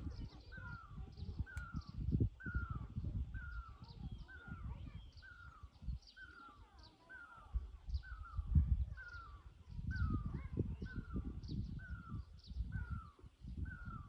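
A bird calling a short, slightly falling note over and over, very evenly, about twice a second.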